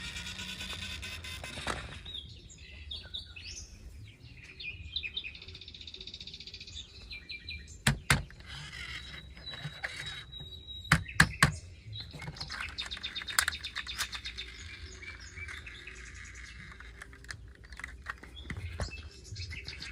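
Birds chirping, with a few sharp knocks about eight seconds in and a quick cluster of them around eleven seconds in.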